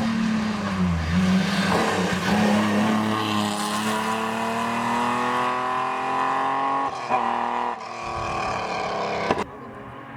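Hillclimb race car engine at full throttle: its pitch dips and recovers early, then climbs steadily for several seconds, broken by quick gear changes about seven and eight seconds in, before the sound drops away abruptly near the end.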